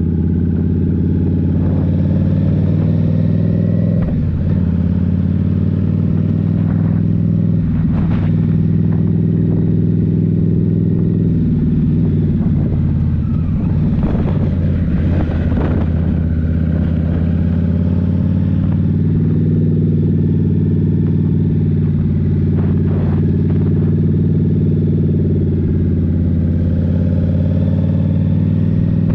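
Indian Scout Rogue's 69 cubic-inch V-twin running through a Rinehart slip-on exhaust while under way, its note rising and falling slowly with the throttle, with a few brief knocks along the way.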